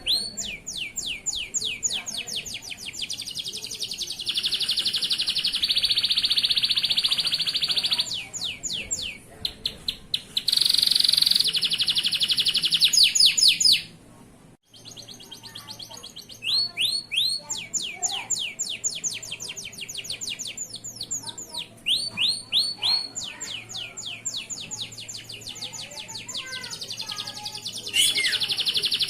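Male local canary singing a long song of repeated high sweeping notes alternating with fast, rapid trills, with a brief pause about halfway through.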